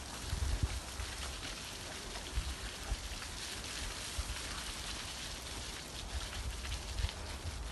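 Steady rain falling on forest foliage, dense with small irregular drip ticks, over an uneven low rumble.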